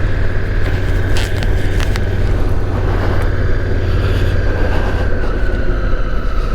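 2017 Honda Africa Twin DCT's parallel-twin engine running steadily while riding, with wind and road noise. A steady high whine drops a little in pitch about five seconds in.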